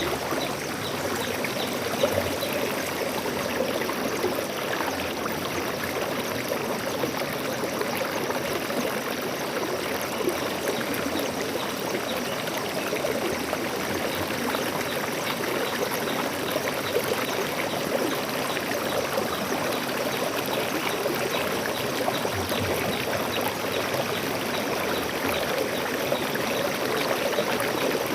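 Water flowing steadily over stones in a small stream, a constant rushing with fine trickling and splashing.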